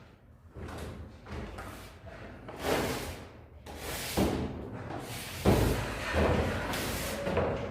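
A series of irregular knocks and scraping strokes, about half a dozen, the loudest about five and a half seconds in.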